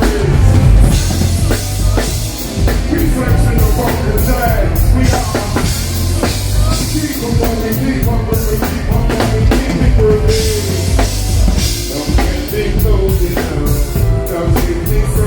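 Band music with a drum kit beat, heavy bass and singing.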